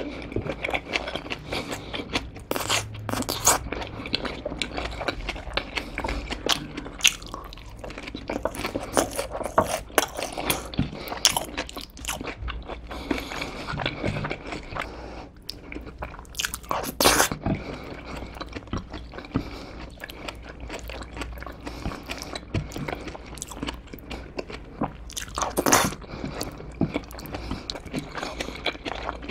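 Close-miked eating sounds: a person chewing and crunching food, with many sharp bite clicks throughout.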